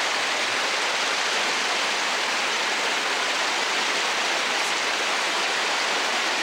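Waterfall and brook water rushing over rocks: a steady, unbroken noise.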